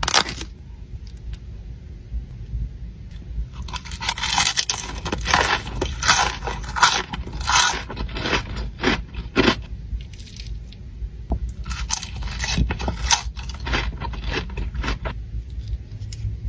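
Crisp crunching bites and chewing of a deep-fried sushi roll, close to the microphone, in two spells of crackly crunching, the first from about four seconds in and the second from about twelve seconds in.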